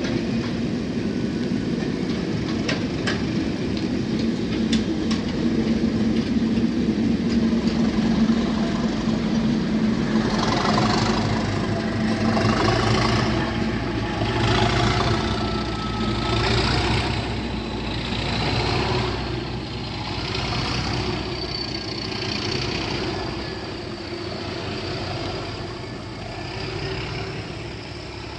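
Class 37 diesel locomotive's English Electric V12 engine working hard, with a high whistle from its turbocharger that climbs slowly in pitch over the second half. The sound is loudest about halfway through, then fades as the locomotive draws away.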